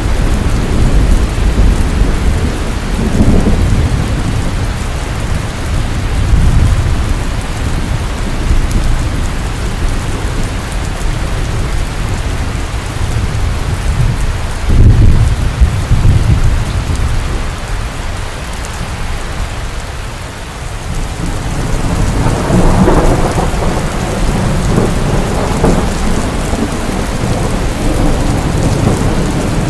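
Steady rain with rolling thunder: a sudden loud crack of thunder about halfway through and a long, swelling rumble near the end.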